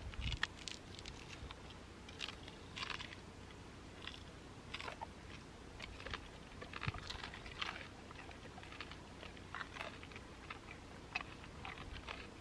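Quiet chewing and biting into food, with irregular small crunches.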